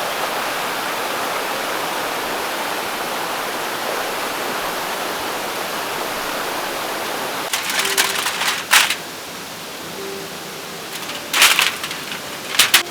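Mountain stream rushing steadily. About seven and a half seconds in, the rush drops quieter and a few sharp rustles and clicks come in, like gear being handled.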